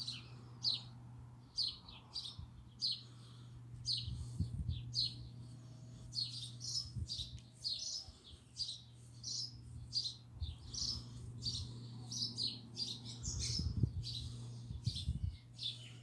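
Birds chirping: short high chirps, one to three a second and irregular. Underneath are a steady low hum and a few dull bumps.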